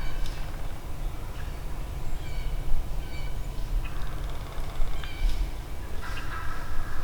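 Wild turkey gobbling, one gobble trailing off at the start and another beginning near the end, with other short repeated bird calls in between over a steady low rumble.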